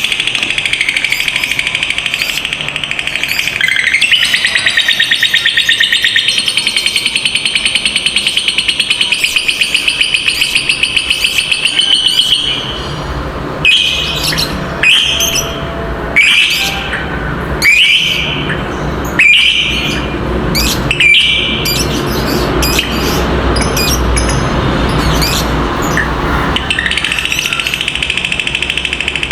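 Lovebird giving its long "ngekek" chattering trill: a fast, high, rattling run of notes for about twelve seconds. This gives way to a series of short separate chirps, and a new long trill starts near the end.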